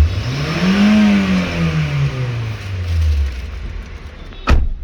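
Honda Brio's four-cylinder petrol engine revved once: the note rises for about a second, then falls back to idle over the next two, the throttle responding after an ECM replacement meant to cure an injector circuit-open code and accelerator fault. A single sharp knock comes near the end.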